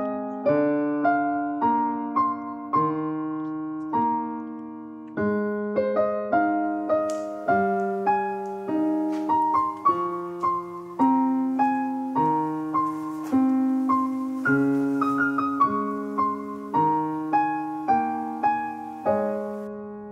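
Solo piano background music, a gentle piece of soft chords and melody notes, each struck and left to fade.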